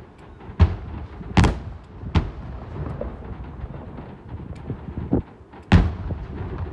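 Aerial fireworks shells bursting with sharp booms: three in the first two seconds, then a quieter one and a loud one near the end, each trailing off briefly.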